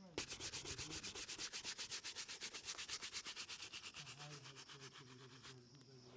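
A shoe being buffed in quick back-and-forth strokes during a shoe shine, about ten strokes a second. The strokes stop suddenly near the end.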